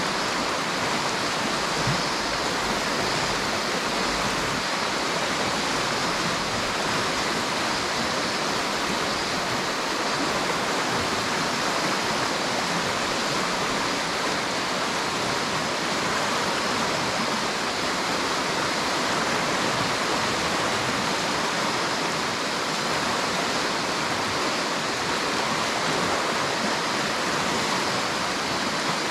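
River water rushing steadily, an even hiss of flowing water that does not change.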